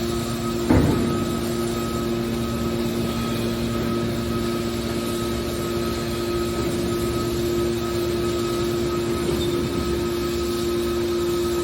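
Metal baler running with a steady machine hum, with one loud clank about a second in.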